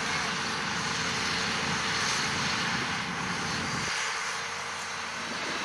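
Carrot-harvesting machinery running steadily in the field, a broad mechanical noise; its low rumble drops away about four seconds in.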